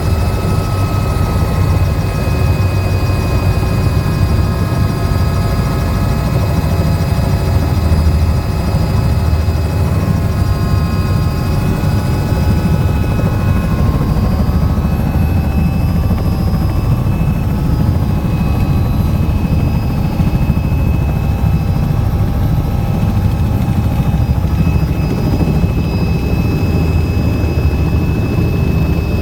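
Helicopter in flight: a loud, steady drone of rotor and engines, with a few thin, steady whining tones above it.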